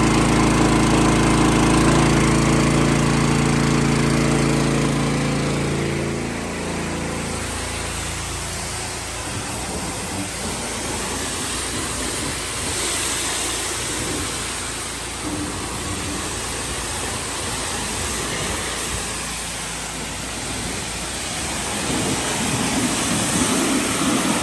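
A 420 cc Powerease engine on a gas pressure washer runs steadily on its first run with the choke on. About six seconds in, its pitch drops as the pump takes up load, and a loud hissing rush of high-pressure water spray from the gun takes over.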